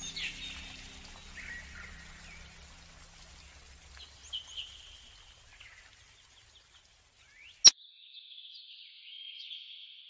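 Birds chirping in short scattered calls over soft music that fades out within the first few seconds. A single sharp click, the loudest sound, comes about three-quarters of the way through, followed by a longer high bird call near the end.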